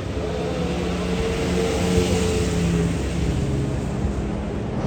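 A motor vehicle driving past, a steady engine hum under a tyre hiss that swells to its loudest about two seconds in.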